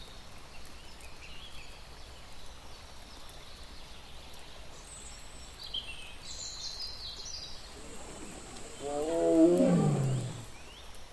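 An Amur tiger gives a single roar about nine seconds in, under two seconds long and falling in pitch. Small birds chirp faintly in the background.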